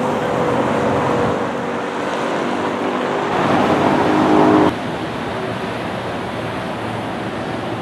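Motor engine noise over a rushing traffic-like din, growing louder and then cutting off abruptly a little under five seconds in, followed by a steady rushing noise.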